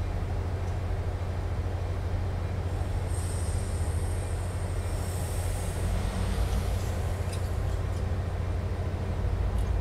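Standing passenger train giving off a steady low rumble, with a high hiss and thin whistling tones from about three to six seconds in.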